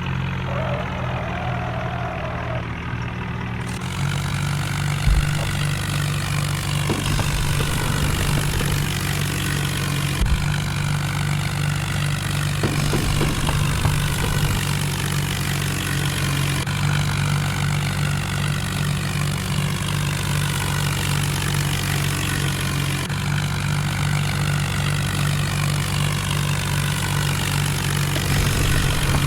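Tractor diesel engine running steadily, with a couple of brief knocks about five and ten seconds in.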